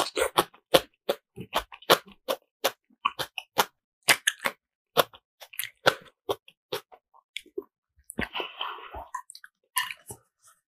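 Close-miked chewing of spicy black bean ramen noodles and kimchi: wet mouth clicks and smacks, several a second, with a longer, noisier stretch about eight seconds in.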